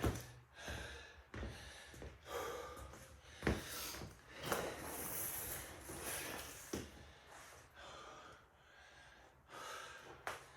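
A man breathing hard and gasping between sets of burpees, irregular loud exhales and in-breaths as he recovers from the exertion.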